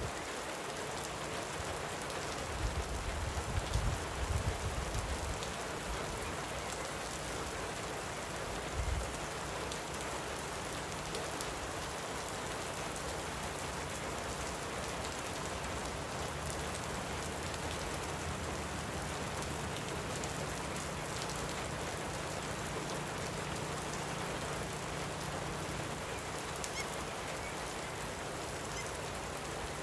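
Light rain falling steadily, an even hiss, with a few low thumps in the first ten seconds.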